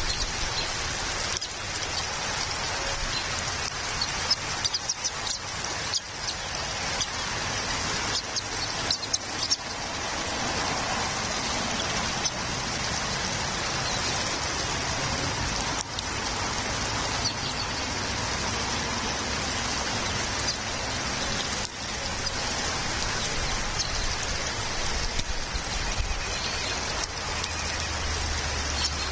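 Steady rain falling, with scattered sharper drop hits, several of them close together a few seconds in.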